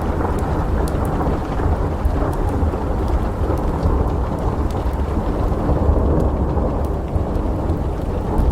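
Thunderstorm ambience: steady rain with a continuous low rumble of thunder, and a few faint, scattered pops of a crackling fireplace.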